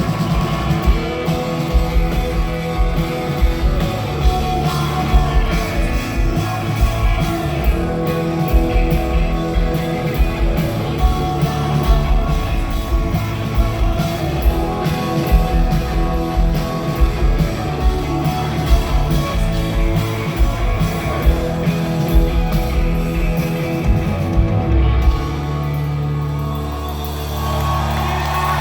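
Rock band playing live, with drums keeping a steady beat under guitars and singing; about 25 seconds in the drums stop and a held chord rings on.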